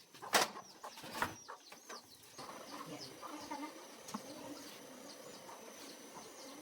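Birds chirping, with a high, short, falling chirp repeated a few times a second, over faint farmyard chicken sounds. Two sharp knocks come in the first second and a half.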